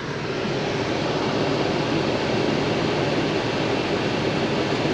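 Steady road and engine noise inside a car cabin, swelling a little in the first second and then holding even.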